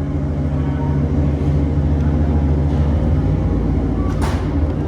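Steady low machine hum with several held tones. A brief rushing noise comes about four seconds in.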